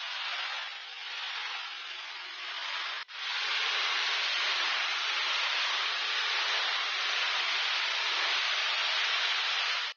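A steady rushing hiss, cut off abruptly about three seconds in and then coming back louder.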